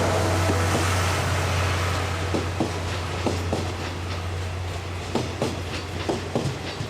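Locomotive-hauled train running on jointed track: a steady low rumble that slowly fades, with wheels clacking over rail joints from about two seconds in.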